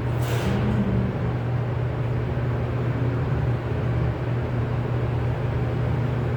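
A steady low mechanical drone with rumbling noise, like an engine running, and a short hiss just after the start.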